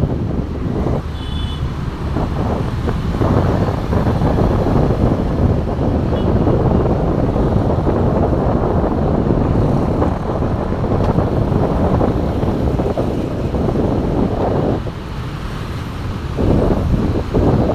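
Deccan Express passenger train running across a bridge close by, its wheels rumbling and clattering steadily on the rails, with brief dips in level as the coaches pass.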